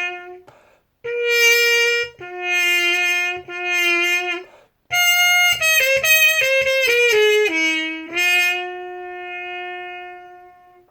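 A solo trumpet plays a slow melody with no accompaniment. It holds a few notes with short breaths between them, plays a quick descending run, and ends on a long held note that fades away.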